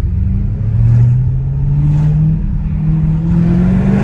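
Straight-piped Audi S7 exhaust rising in pitch under acceleration, with a short drop in pitch about two and a half seconds in, like a gear change, then rising again.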